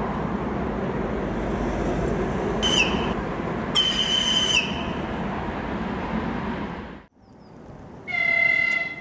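VL10 electric locomotive hauling a freight train past, the wagons' wheels rumbling steadily on the rails, with two short high whistle signals, the second one longer. The rumble then stops abruptly, and an ES1P Lastochka electric train sounds its horn once, briefly, near the end.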